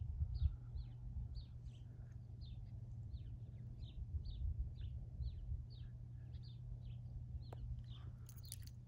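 A bird calling over and over: short, high, falling chirps about twice a second, over a steady low rumble. A brief hiss comes near the end.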